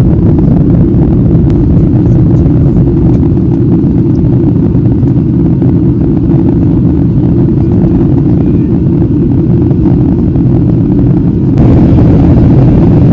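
Airliner cabin noise at the window seat: a steady low rumble of the engines and airflow. About eleven and a half seconds in, a brighter hiss cuts in suddenly on top of the rumble and the sound gets a little louder.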